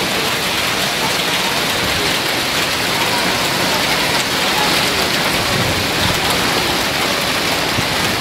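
Heavy hailstorm: hailstones and rain pelting down on hard surfaces in a steady, dense hiss made of countless small hits.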